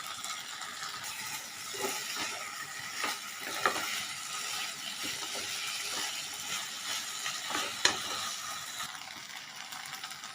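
Chicken sausage pieces, capsicum and sauces sizzling in oil in a frying pot while being sautéed, with a steady frying hiss and a few scrapes and taps of the spatula against the pot.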